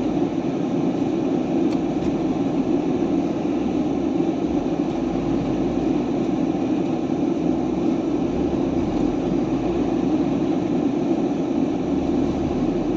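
Steady drone of a semi-truck's diesel engine and road noise, heard from inside the cab while driving.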